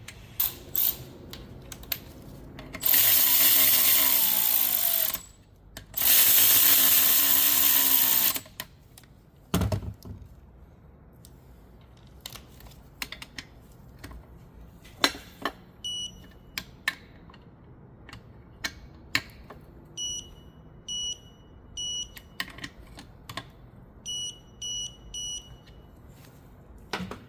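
Two long hissing sprays from an aerosol lubricant can, each about two and a half seconds, coating the reassembled manual transmission's gears. Scattered clicks of metal parts and tools follow, and in the second half groups of short, high electronic beeps, three or four at a time.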